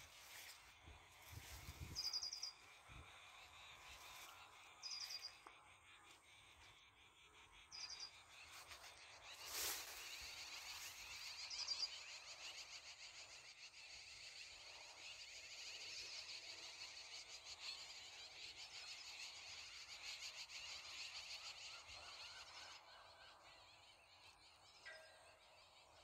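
Faint outdoor field ambience: a bird gives short high chirps a few times, about three seconds apart, over a faint steady high buzz. A single knock of handling noise comes about ten seconds in.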